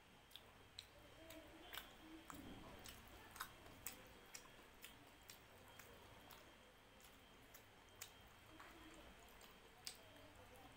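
Faint, close-up eating sounds of rice and dal eaten by hand: wet mouth clicks and smacks of chewing, irregular, about one or two a second, with soft squishing of rice being mixed on the plate.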